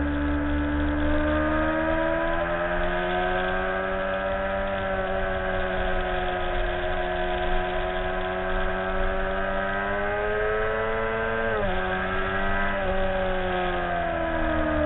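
Motorcycle engine heard from an onboard camera, pulling under load with its pitch climbing slowly through a long corner. A sudden drop in pitch about eleven and a half seconds in marks a gear change, after which the revs rise briefly and then fall away near the end. Wind rumbles on the microphone throughout.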